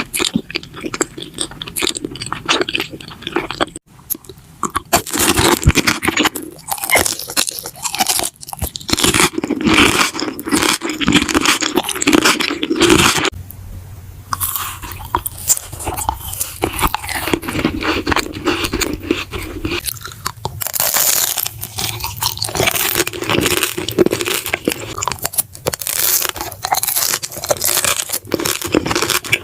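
Close-miked eating: crunchy bites and chewing, crackling with brief pauses between mouthfuls.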